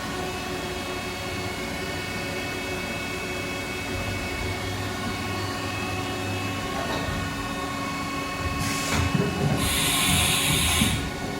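A Haas VF-2B CNC vertical mill running, with a steady whine made of several fixed tones. About nine seconds in, short hisses start, followed by a louder hiss lasting over a second.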